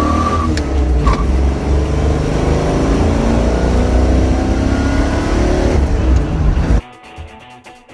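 Car engine running loud and revving, its pitch rising and falling. It cuts off suddenly near the end, giving way to quieter guitar music.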